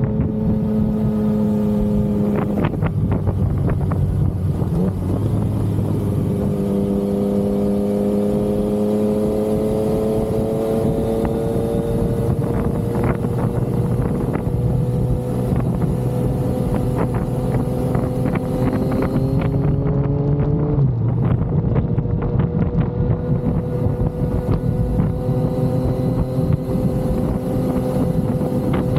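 Yamaha XSR900's inline three-cylinder engine under way on the road. Its note dips about three seconds in, climbs slowly through the middle, drops sharply about twenty-one seconds in as with a gear change, then holds steady. Wind rushes over the microphone.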